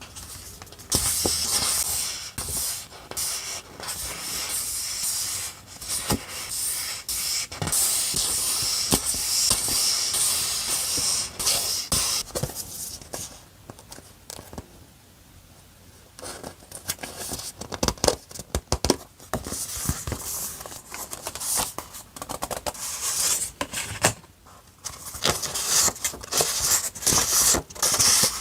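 Paper and sticker sheets being handled: bursts of rustling and scraping with small taps, with a quieter lull about halfway through.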